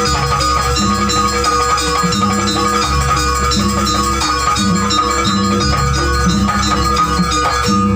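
Music from a Janger ensemble: struck percussion with steady ringing tones over a repeating low line.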